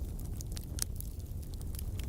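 Wood fire burning in a fireplace: a steady low rumble of the flames with frequent small crackles and pops, one sharper pop a little under a second in.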